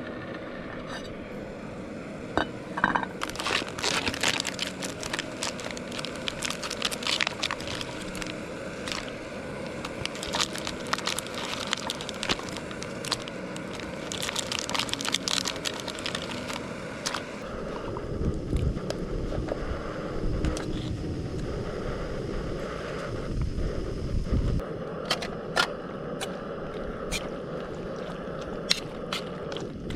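Camp cooking and handling noises: irregular crackles, crinkles, scrapes and clicks, with low rumbling thumps between about 18 and 25 seconds in.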